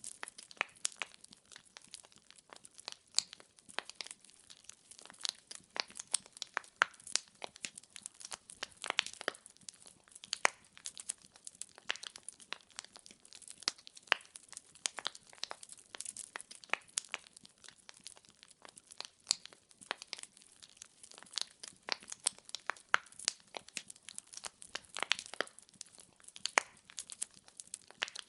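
Wood fire crackling in a fireplace: dense, irregular pops and snaps of burning logs over a faint hiss.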